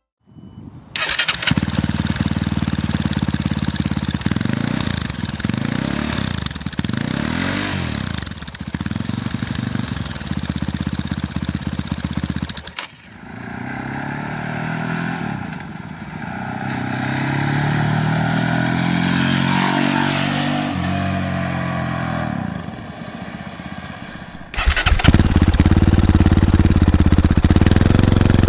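Fantic Caballero 500's 449 cc single-cylinder engine heard in several riding passes, its note rising and falling as the bike accelerates and goes by, with a sudden cut to another pass about halfway through. Near the end it runs steadily and louder, close to its twin Arrows silencers.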